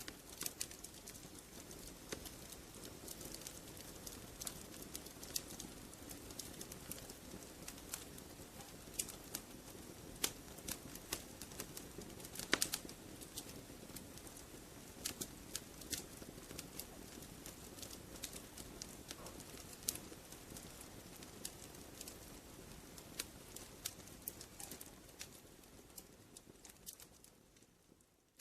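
Wood fire crackling in a fireplace: a steady low rumble of flames with irregular sharp pops and snaps, a few much louder than the rest. The sound fades out near the end.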